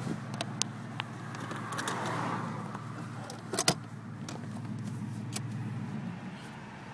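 Ford 3.8-litre V6 with headers and dual exhaust running at low speed as the car pulls away, heard from inside the cabin. Over it the turn-signal flasher clicks in slow pairs about every 1.7 seconds; the flasher is slowed down to suit sequential taillights.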